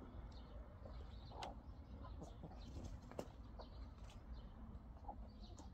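Faint birds chirping in short scattered calls, with a couple of soft knocks and a low steady rumble underneath.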